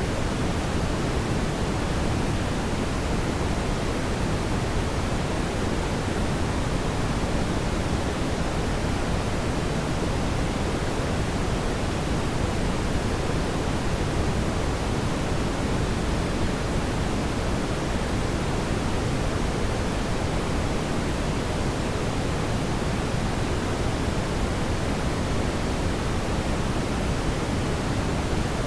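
Fireplace ambience: a steady, even rushing noise, heavier in the low end, with no distinct crackles or pops.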